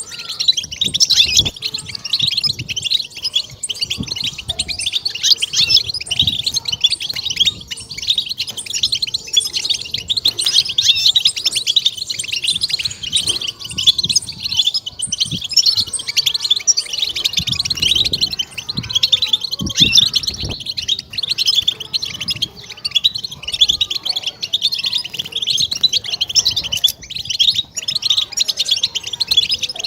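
European goldfinch singing: a rapid, unbroken stream of high twittering chirps, the excited 'batbata' song used to stimulate captive goldfinches.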